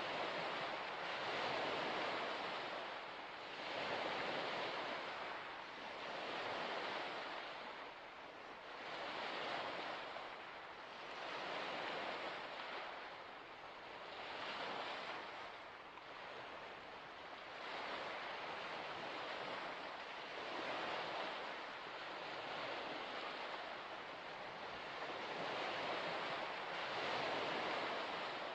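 Small waves washing onto a shore, swelling and fading in a steady rhythm about every two seconds.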